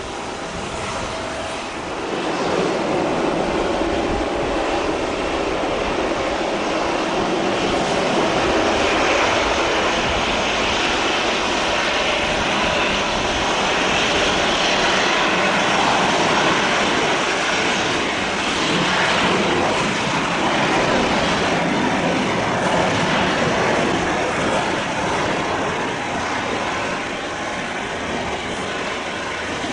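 Jet airliner engines on the runway, a loud, steady rush that comes up about two seconds in and eases slightly near the end.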